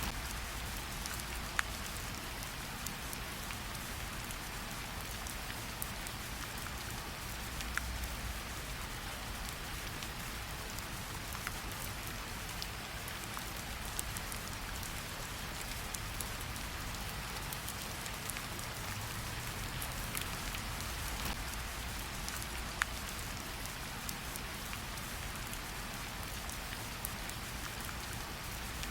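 Steady light rain pattering on tree leaves, with scattered individual drops ticking now and then, a few standing out louder, over a faint low rumble.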